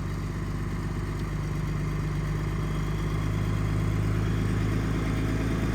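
Cold Cummins turbo-diesel in a Dodge Ram pickup running at its cold-start high idle of about 1200–1250 rpm, steady and getting slightly louder.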